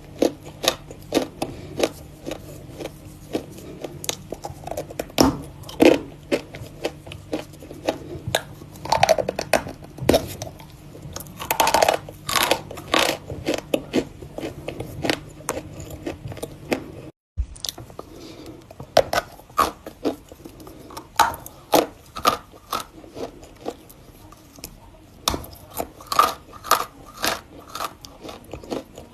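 Close-up biting and chewing of chunks of Volokonovka natural chalk, a string of sharp, dry crunches and crackles with softer grinding between the bites. It breaks off for an instant about seventeen seconds in.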